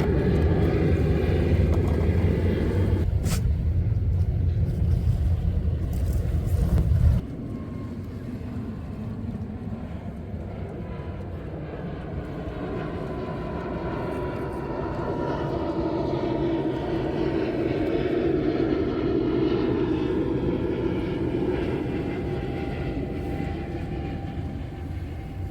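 A loud low engine rumble that cuts off abruptly about seven seconds in. After it comes a quieter engine drone with a faint whine, which slowly swells and then fades as it passes.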